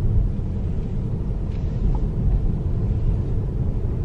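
Tesla Model S driving, heard from inside the cabin: a steady low rumble of tyres and road.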